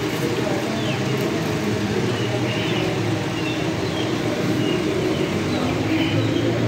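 Small cage birds such as finches and java sparrows chirping with short high calls every second or so, over a steady low rumble that is the loudest sound.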